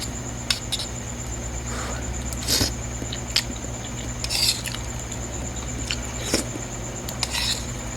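Close-up eating of ramen: noodles slurped in short bursts about three times, with sharp clicks of utensils against the bowl in between, over a steady low hum and a faint high whine.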